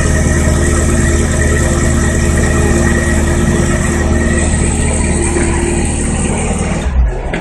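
Sports car engine running steadily at an unchanging pitch, cutting off abruptly about seven seconds in.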